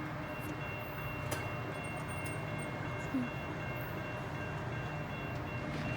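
Blue Ridge Southern train's diesel locomotive running, a steady low rumble with faint steady tones above it, and one sharp click about a second in.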